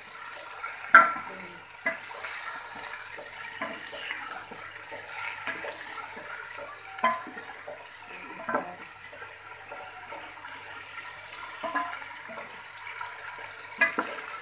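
Chicken pieces and sliced onion sizzling in hot oil in a metal pot (handi), stirred with a spoon that scrapes and knocks against the pot now and then, a few of the knocks sharper. The chicken has just gone in raw and is being kept moving so it doesn't stick.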